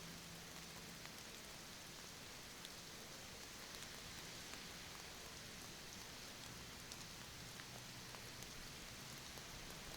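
Steady rain falling: a soft, even hiss with scattered faint ticks of individual drops.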